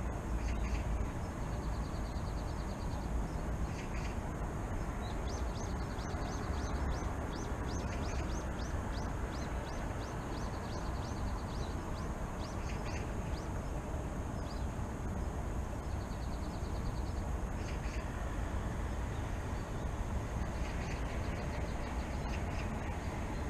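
Small birds singing over a steady low rumble of distant city traffic: a string of short falling chirps, with three brief fast trills.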